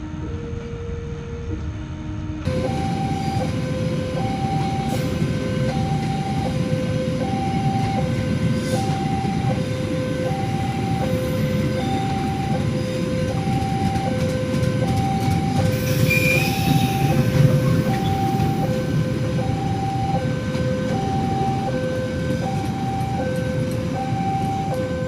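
Railway level-crossing warning alarm alternating between two tones, about one high-low cycle a second, over the rumble of a passing train. About two seconds in the alarm becomes louder and shifts to a higher pair of tones, and the train is loudest about two-thirds of the way through, with a brief high squeal.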